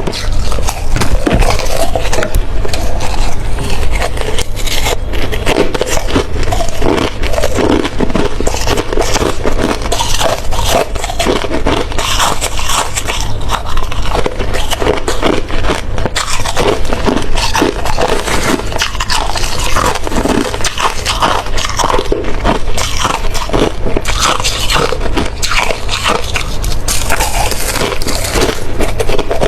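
Ice being bitten and chewed close to the microphone: continuous crunching with many sharp cracks.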